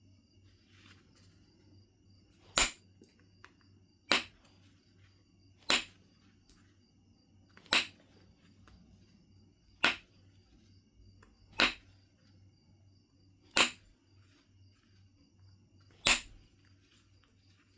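Knife River Flint being knapped: eight sharp clicks, each a flake coming off the stone, spaced irregularly about one and a half to two and a half seconds apart.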